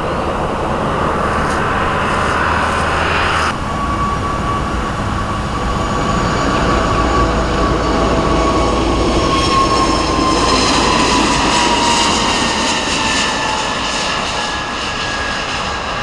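Airbus A320 twin turbofan jet engines running at high power on departure. About three and a half seconds in, the sound cuts abruptly to another A320, whose engine whine falls slowly in pitch as the jet noise carries on.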